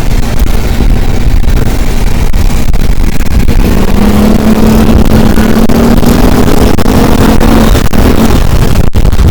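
An engine running under a loud, steady rumble, its hum rising a little in pitch midway and dropping away shortly before the end.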